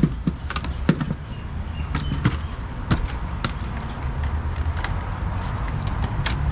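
Scattered sharp metal clanks and knocks of tools being handled, over a low steady rumble.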